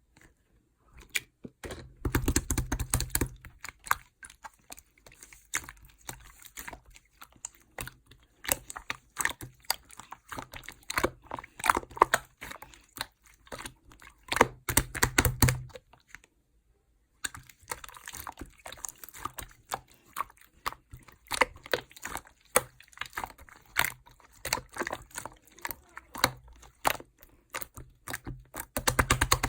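Clear slime being squished and stretched by hand, giving rapid, irregular sticky clicks and pops. There are heavier bursts with low thumps early on and around the middle, and a short pause just after the middle.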